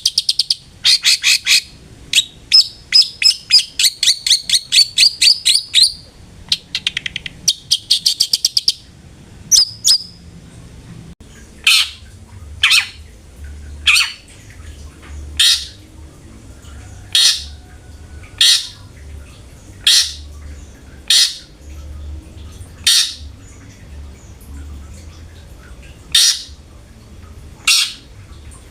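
Long-tailed shrike (cendet) calling: fast chattering trills for the first several seconds, then single short harsh calls repeated about every second and a half.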